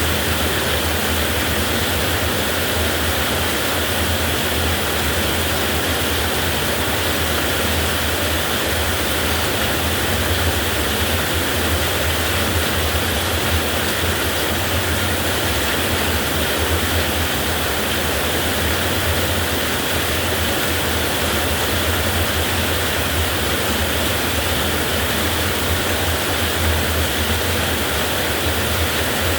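Heavy rain falling steadily, a dense, even hiss with a low rumble beneath it.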